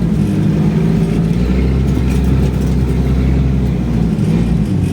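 Off-road 4x4 engine running hard under heavy throttle, pulling the vehicle through deep sand.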